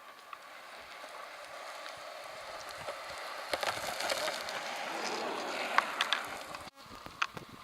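Small board wheels rolling over rough, gritty pavement: a steady rushing noise that grows louder over several seconds, with scattered small clicks. It breaks off abruptly near the end, and a few sharper clicks follow.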